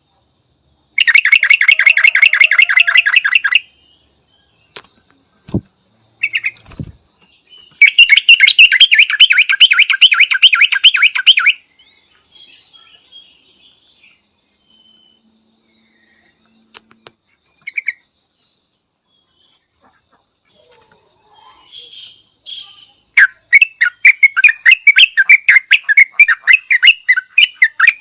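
Yellow-vented bulbul calling in three bouts of rapid, evenly pulsed chattering notes, about ten a second. A couple of short low knocks fall between the first two bouts.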